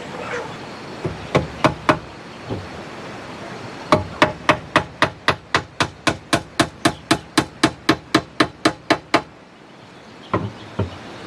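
Hammer blows on wood: a few scattered strikes, then a steady run of about twenty quick blows at roughly four a second, and two last strikes near the end.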